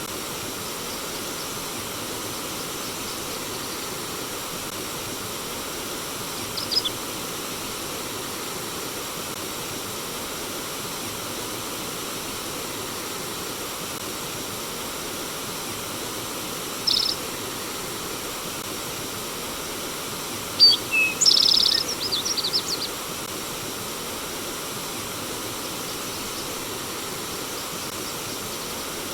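Steady rush of flowing stream water with a songbird chirping briefly three times: a short chirp about a quarter of the way in, another a little past halfway, and a longer run of quick chirps about three quarters of the way in.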